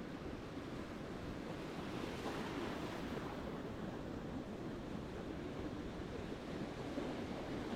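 Ocean surf washing onto the shore, a wave breaking and swelling louder about two seconds in, with a little wind on the microphone.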